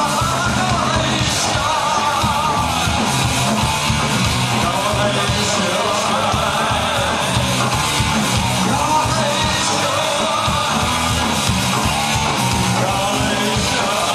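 Punk rock band playing live, with loud distorted guitars, drums and shouted singing.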